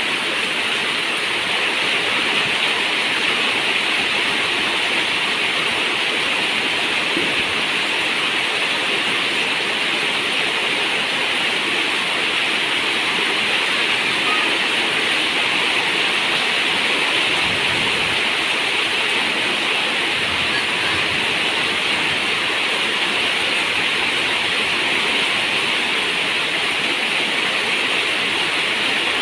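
Steady heavy rain, an even, dense hiss with no single drops standing out.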